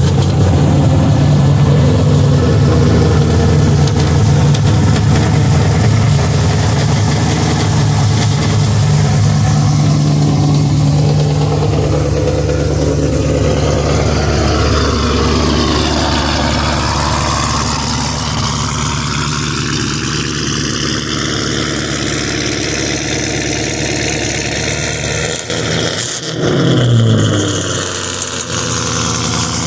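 Sixth-generation Chevrolet Camaro's engine running at a steady idle just after being started. Near the end it dips briefly, then gives one short rev that rises and falls.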